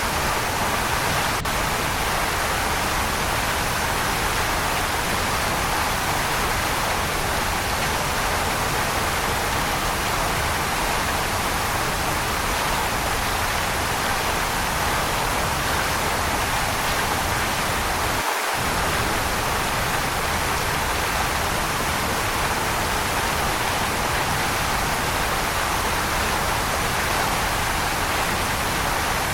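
Waterfall: a steady rush of falling water, an even hiss that holds the same level throughout.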